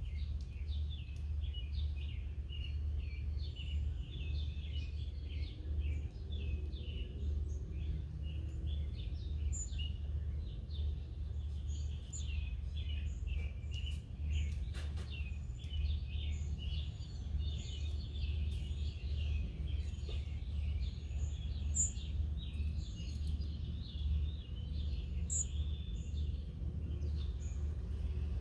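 Many small songbirds chirping, with short overlapping chirps throughout, over a steady low rumble.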